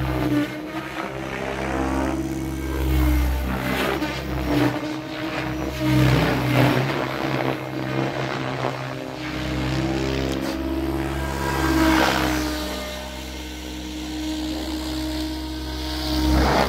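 KDS Agile 7.2, a 700-size RC helicopter, flying 3D manoeuvres: its rotor blades whir and its pitch swings up and down again and again as the head loads and unloads.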